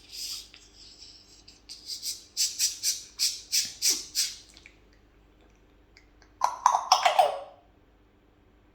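African grey parrot making a rapid run of clicks, about four a second, then after a short pause one brief loud pitched call.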